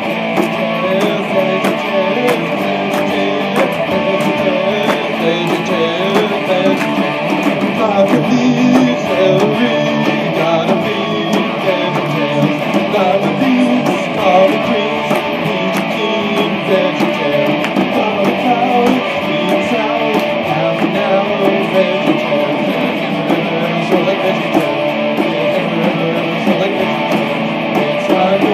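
Live guitar music, an instrumental passage with no singing.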